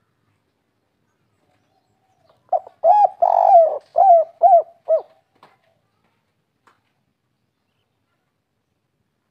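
Spotted dove (derkuku) cooing one phrase of about six notes, the third drawn out longest and the last few short and evenly spaced: the 'kuk 3' call type that ends in three short coos.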